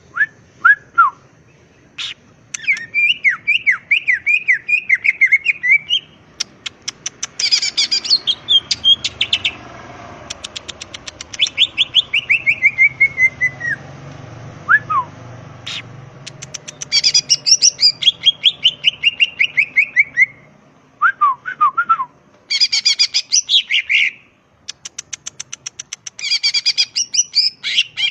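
Greater green leafbird (cucak ijo) singing a loud, varied song: bursts of fast rattling notes, descending runs of chirps and short gliding whistles, repeated with brief pauses between phrases.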